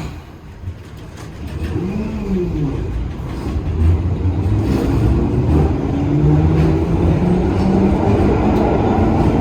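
Traction motors and gearing of a 1972 Tube Stock train starting from standstill: about two seconds in, a whine rises and falls away again almost at once, an unusual run-up that the uploader ties to free play in the gearbox. The motor whine then picks up again and holds over a growing rumble as the train accelerates.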